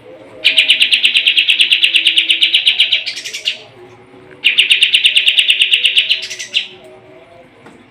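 Kapas tembak songbird singing loudly in two long, fast trills of identical rapid-fire notes, about a dozen a second. Each run lasts two to three seconds and ends in a short, higher buzzy note.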